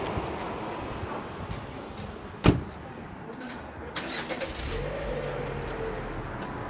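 One sharp knock about two and a half seconds in, standing out above steady background noise. A low steady hum comes in near the end.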